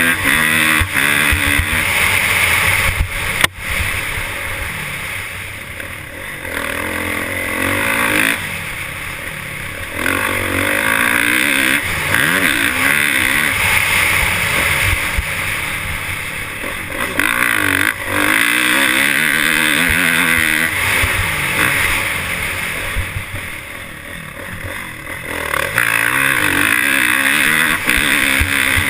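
Motocross dirt bike engines revving up and falling off again and again as the bikes ride, loud at times and easing about a third of the way in and again near the end. A single sharp knock comes about three and a half seconds in.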